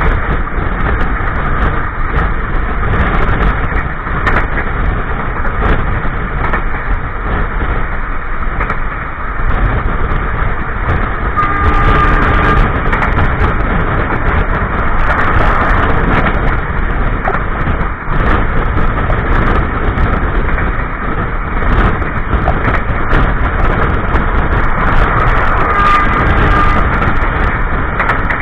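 Passenger train running, heard from inside a coach's toilet: a loud, steady rumble of the wheels on the rails. A brief high tone sounds about twelve seconds in and again near the end.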